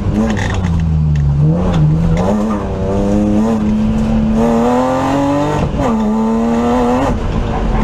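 BMW E36 328's straight-six engine under hard acceleration, heard from inside the stripped rally car's cabin: the revs climb steadily for a few seconds, then drop sharply at a gear change about six seconds in and pull on. Sharp clicks and knocks are scattered through it.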